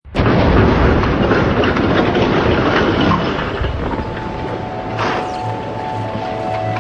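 Loud rumbling, rattling noise that eases after about three seconds, while held music notes fade in from about four seconds in.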